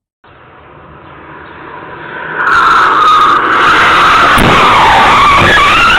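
Car tyres screeching in a skid: the squeal builds up and is loud from about two seconds in, wavering in pitch, with two low thumps near the end.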